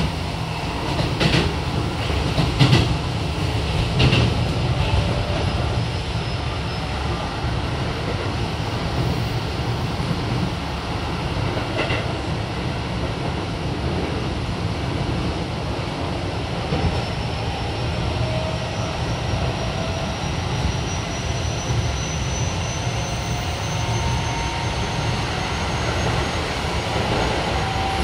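Running noise inside a Keio 7000 series commuter train car: a steady low rumble of wheels on rail, with several sharp clacks over rail joints in the first few seconds. In the second half a faint high whine from the Hitachi IGBT inverter-driven traction motors slowly rises in pitch.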